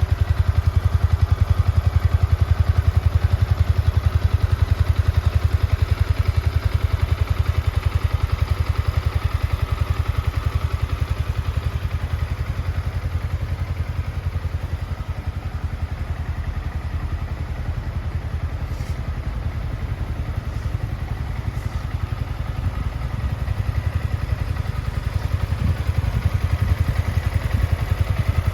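Yamaha MT-125's single-cylinder 125 cc four-stroke engine idling steadily, a fast even exhaust beat that eases slightly in loudness midway and then picks back up.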